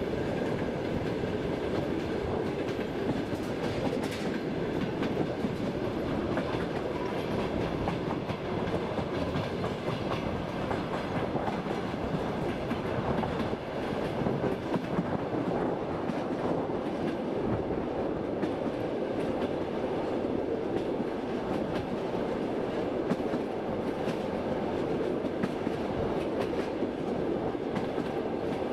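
Express passenger train running steadily, heard from aboard: an even rumble of wheels on rails with scattered light clicks and a faint steady whine.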